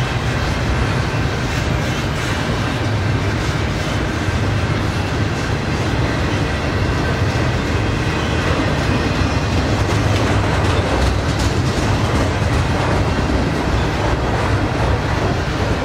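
Double-stack container train rolling past: the steady rumble of the well cars' wheels on the rails, with scattered clicking as the wheels pass over the rail joints.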